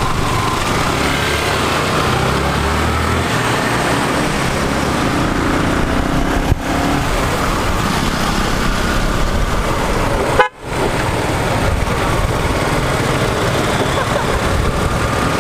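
Motorcycle riding through heavy hill-road traffic: steady engine and road noise, with vehicle horns honking. The sound drops out for a split second about ten seconds in.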